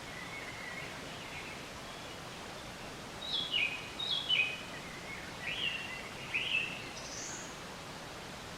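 A songbird singing a short run of high chirps about three seconds in: two quick falling trills, then two swooping notes and a higher final note, over a steady background hiss of outdoor ambience.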